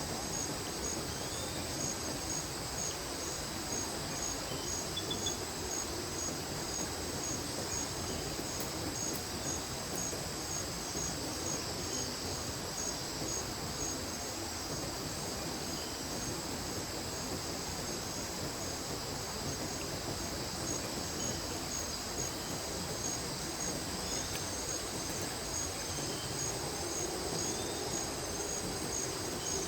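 Insects, crickets or similar, trilling steadily in a high, regular pulsing chorus over the even rush of a mountain creek, with a few faint bird chirps.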